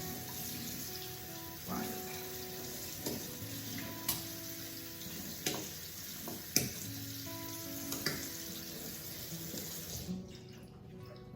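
Cold water running from a kitchen tap over freshly drained pasta in a strainer, with a few sharp knocks along the way; the water shuts off about ten seconds in. Soft background music plays underneath.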